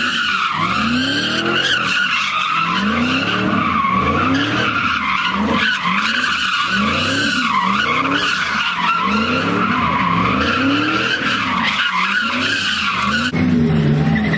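Ford Mustang doing donuts: tyres squealing without a break while the engine revs rise and fall about once a second.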